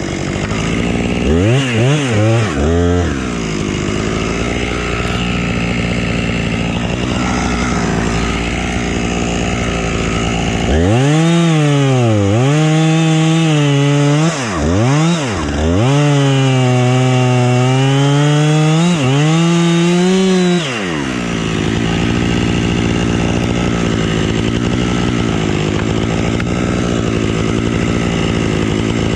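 Husqvarna two-stroke chainsaw idling, blipped up a few times about two seconds in, then held at full throttle for about ten seconds, with a short drop near the middle, before falling back to idle.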